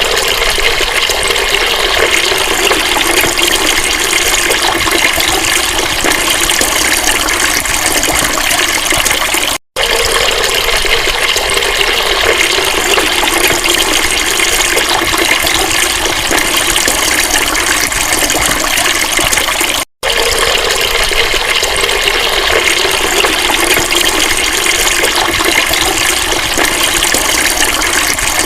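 Steady rush of flowing water, with two brief dropouts about ten and twenty seconds in.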